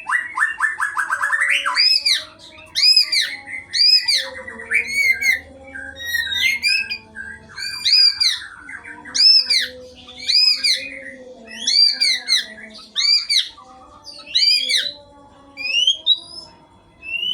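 White-rumped shama singing: a rapid trill, then a run of loud arched whistled notes repeated about once a second, ending in rising whistles.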